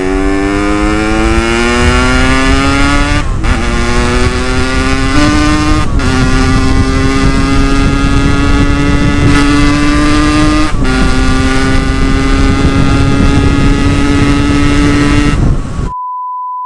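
Ported Yamaha RX-King 135cc two-stroke single ridden hard, its revs rising and then dropping briefly at upshifts about 3, 6 and 11 seconds in, then held high and steady. The engine cuts off near the end and a short steady beep follows.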